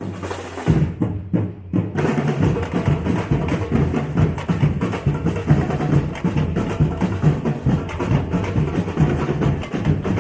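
Live drumming: drums beating a fast, dense rhythm, which fills out with more strikes about two seconds in.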